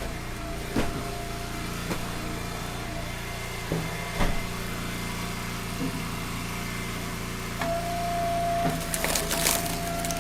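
Engine-driven log splitter running steadily, with a few knocks of wood on steel and a burst of wood cracking and splintering near the end as a round splits.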